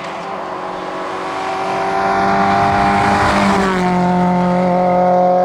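Seat Panda hillclimb car's engine held at high revs, growing steadily louder as it approaches. A little past halfway its tone shifts.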